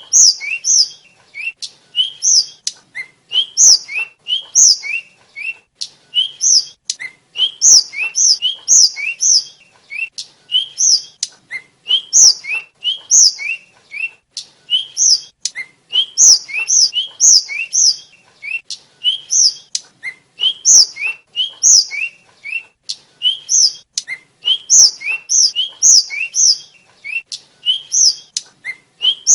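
Tledekan (sikatan) flycatcher singing: short, quick phrases of high whistled notes, a few lower rising notes followed by louder, higher ones, repeated over and over about once a second.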